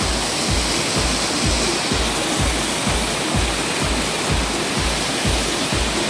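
Steady rush of a waterfall, with background music laid over it: a regular low kick-drum beat about two or three times a second.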